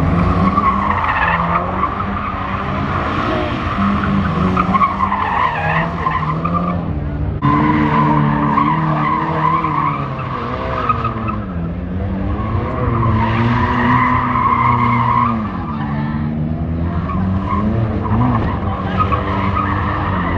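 A car spinning donuts: its tyres squeal without a break over an engine held high in the revs. The revs sag and climb again a few times.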